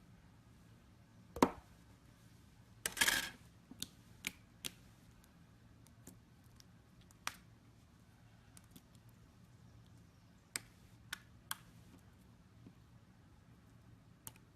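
Hands working slime, making scattered small clicks and pops. There is a sharp pop about a second and a half in and a short, dense cluster of pops about three seconds in.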